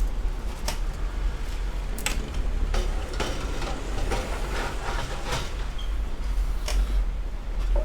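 Scattered clicks and knocks of computer parts being handled and fitted into a PC case during assembly, over a steady low hum.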